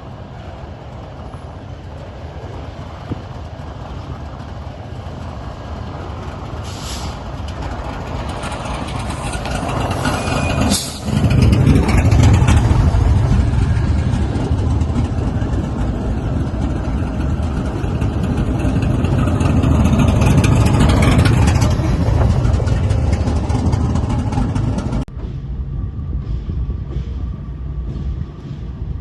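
Diesel freight locomotive running close by, its engine rumble growing louder over the first ten seconds and staying heavy and loud through the middle. Near the end the sound drops abruptly to a quieter, thinner train noise with a faint steady tone.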